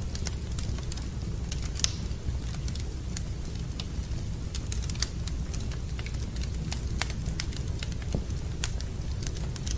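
Wood fire burning in a fireplace, crackling with irregular sharp pops, the two loudest about two and five seconds in, over a steady low rumble.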